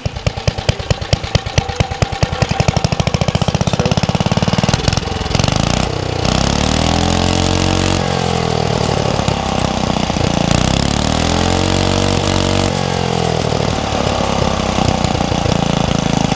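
A Tecumseh H3 3 horsepower single-cylinder engine starting: at first it fires slowly and unevenly, with distinct strokes that quicken over the first few seconds, and then it settles into running. Partway through it is revved up and back down twice, its pitch rising and falling each time.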